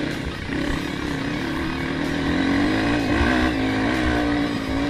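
Off-road dirt bike engine running under changing throttle while riding a rough dirt trail, its pitch rising and falling steadily, with a low rumble beneath.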